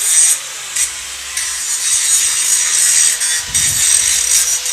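Angle grinder working steel for an engine mount: a steady motor whine under a rasping hiss that swells and eases as the disc is pressed against the metal.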